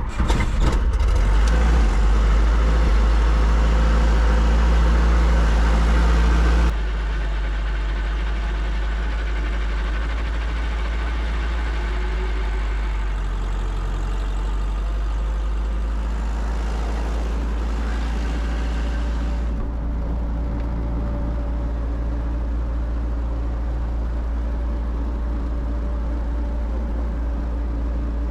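Piston helicopter engine cranked on the starter and catching right at the start, then running steadily at idle. The sound drops suddenly in level about seven seconds in, and it becomes duller near twenty seconds.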